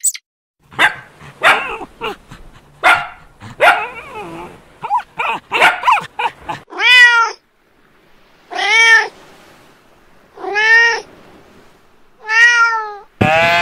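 A series of animal calls: first a quick run of short, varied cries, then four drawn-out calls about two seconds apart, each rising and falling in pitch. A louder call begins just before the end.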